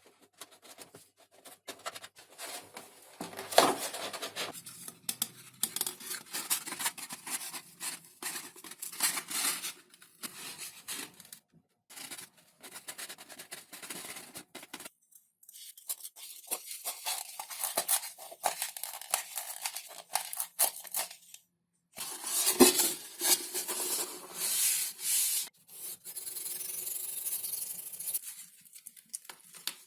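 Hand work on foam model parts: irregular scraping, crackling and tearing, broken by short pauses, with a sharp knock about three and a half seconds in and another about twenty-two seconds in.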